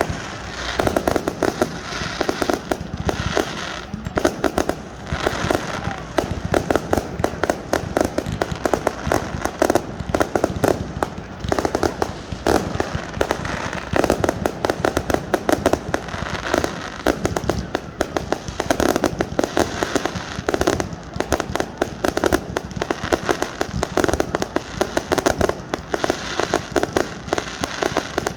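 Fireworks display: a rapid, continuous barrage of bangs, pops and crackling with no pause.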